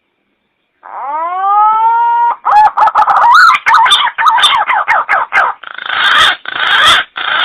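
Punai (green pigeon) lure call: one drawn-out rising note, then a quick run of wavering whistled notes, turning harsher and raspier near the end.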